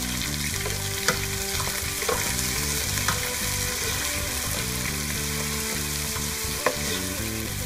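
Diced pork, garlic, onion and tomato sizzling in hot oil in a metal pot while being stirred with a spatula, the ginisa sauté. The spatula clicks against the pot now and then.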